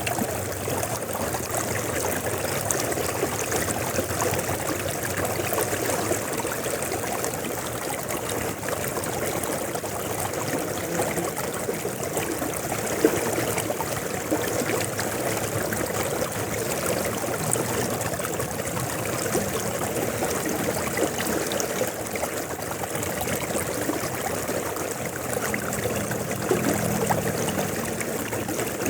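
River water flowing steadily, a continuous rush with a fine, flickering texture.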